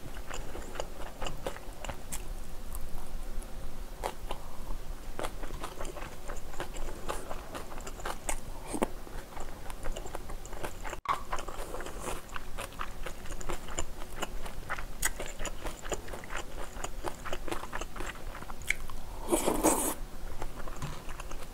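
Close-miked chewing of kimchi fried rice with green chili peppers: wet chewing, biting and sharp mouth clicks, with a louder burst of noise near the end.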